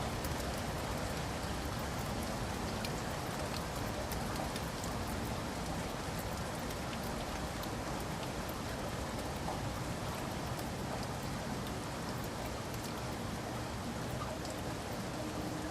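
Steady rain: an even hiss with scattered sharp ticks of individual drops striking a surface.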